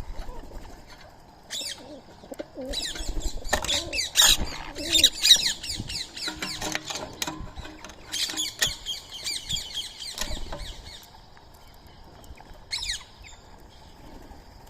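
Birds feeding together, with rapid high chirping calls in dense runs through the first two-thirds and wing flaps among them. It goes quieter after that, with one more call near the end.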